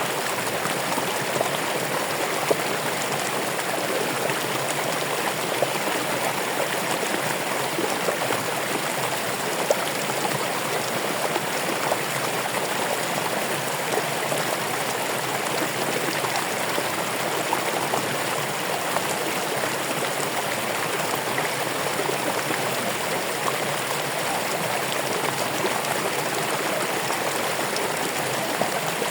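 Running water: a steady, even rush of a stream or small cascade flowing over rocks, with small splashes and gurgles scattered through it.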